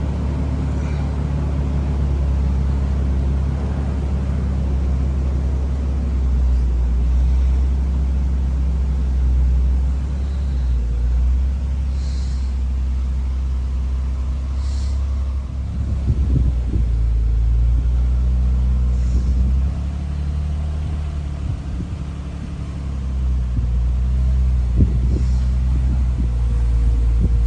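1991 Nissan 300ZX Twin Turbo's 3.0-litre twin-turbo V6 running after its first start in about two weeks, a steady low engine note whose pitch shifts a few times, with a few light knocks.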